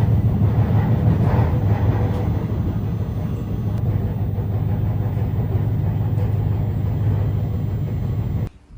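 Steady low rumble of a moving vehicle's engine and road noise, with a continuous low hum, starting and cutting off abruptly.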